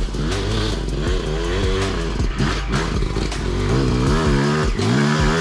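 Dirt bike engine revving hard, its pitch climbing and dropping again and again as the rider works the throttle and gears.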